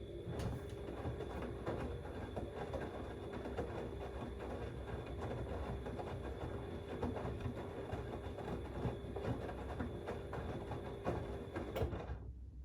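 Siemens XLS 140 A front-loading washing machine's drum turning in the wash: a steady motor hum under the wet load tumbling with many small knocks. It stops suddenly near the end as the drum pauses.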